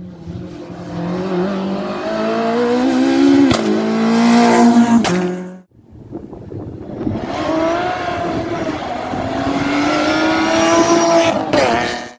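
Rally car engine under hard acceleration, its pitch climbing through the revs with brief breaks at gear changes. The sound cuts off abruptly about halfway through, then a second stretch of the same engine running at high revs starts and cuts off again at the end.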